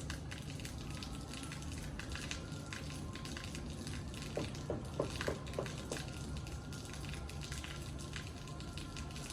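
Rain falling steadily, a dense patter of drops and drips. About halfway through, a short run of five or six brief pitched calls sounds over it.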